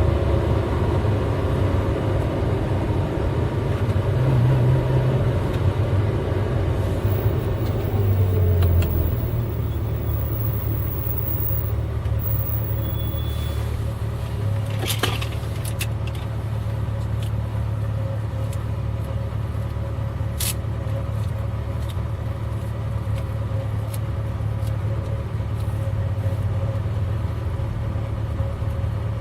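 V8 car engine running on the move, a steady low drone that is a little louder for the first nine seconds or so, then settles to an even cruise. A couple of brief clicks are heard near the middle.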